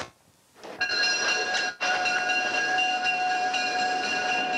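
A bilevel commuter train rolls over the snowy yard tracks with a steady high-pitched ringing of several tones over the running noise. The sound cuts out for a moment at the start.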